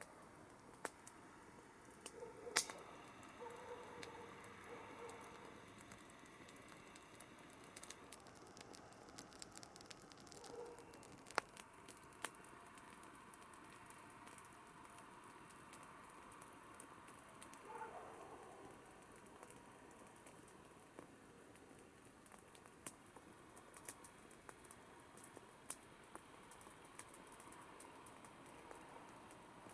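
Wood campfire crackling, with a steady stream of small irregular snaps and a few sharper pops, the loudest about two and a half seconds in and again near eleven seconds.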